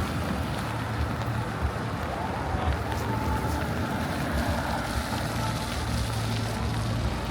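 Steady rain hiss on a wet city street under a continuous low rumble of traffic, with a few faint ticks.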